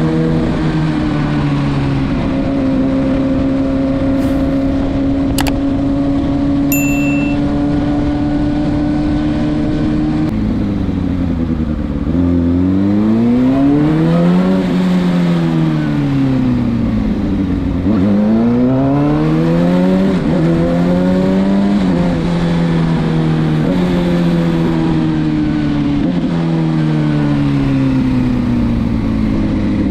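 Kawasaki ZX-6R inline-four running through a Leo Vince SBK titanium exhaust: steady cruising for about ten seconds, then two rises and falls in revs, then a run of gear changes, each a short climb in pitch ending in a drop.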